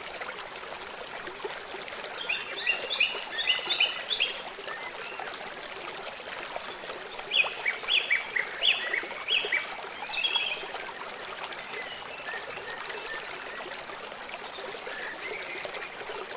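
A stream running steadily, with a songbird calling over it in two quick runs of short chirps, the first about two seconds in and the second about seven seconds in.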